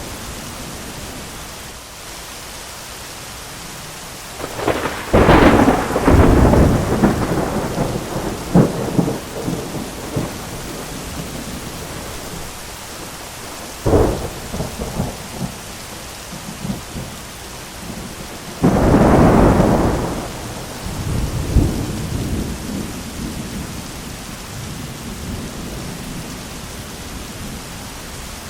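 Steady heavy rain with three thunderclaps. A loud one comes about five seconds in and crackles and rumbles on for several seconds. A sharp crack follows near the middle, and another loud clap about two-thirds through rolls off into rumbling.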